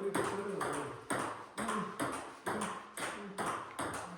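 Table-tennis rally: a ping-pong ball clicking back and forth off paddles and table, about two hits a second in an even rhythm.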